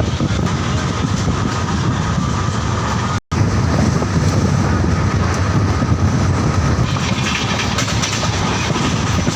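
Passenger express train hauled by a WAP-5 electric locomotive passing at high speed: a loud, steady rush and rumble of wheels on the rails. The sound cuts out for an instant about three seconds in, and the hiss grows brighter about seven seconds in.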